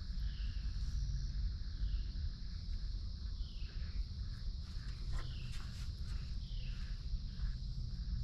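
Outdoor insect chorus at dusk: a steady high trill. Over it, a short call falling in pitch repeats every second or so, with a low rumble underneath.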